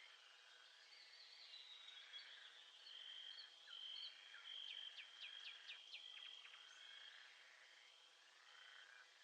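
Faint nature ambience: a steady high trilling chorus, with a bird giving a quick run of about five falling notes around the middle.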